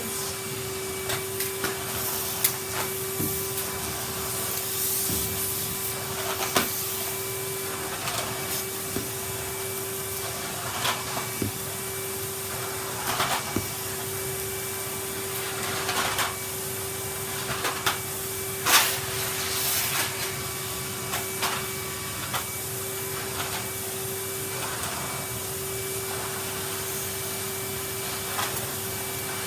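A vacuum cleaner runs steadily with a constant motor hum as it is worked over a carpet, with scattered short knocks and scrapes. The loudest knock comes about two-thirds of the way through.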